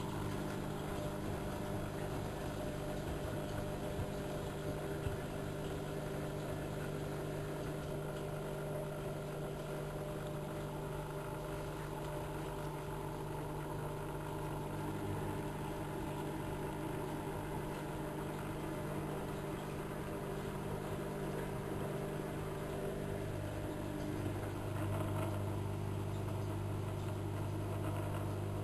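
Bauknecht WA1400 Dolphin washing machine running, with a steady motor hum made of several fixed low tones. The hum gets a little louder about 24 seconds in.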